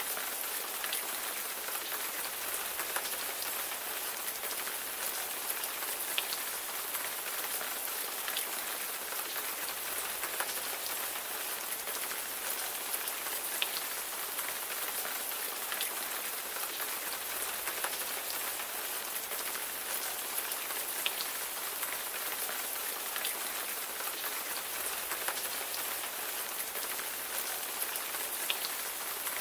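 Steady rain falling, a dense even hiss with scattered sharper ticks of single drops hitting a surface.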